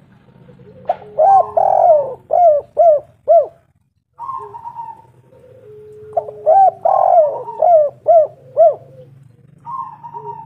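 Spotted dove (tekukur) cooing: two song phrases about five seconds apart, each a string of short rising-and-falling coos.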